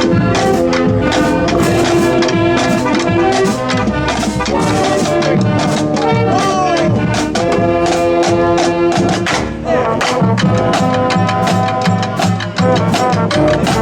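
Marching band playing its field show music: brass melody on trumpets and trombones over a steady drum beat.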